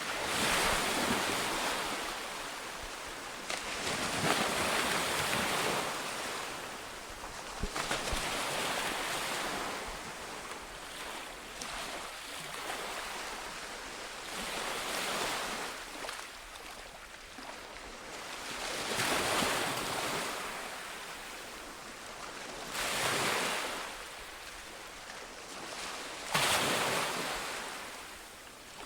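Sea waves breaking on a shore, each wash swelling and fading in turn, about every three to four seconds.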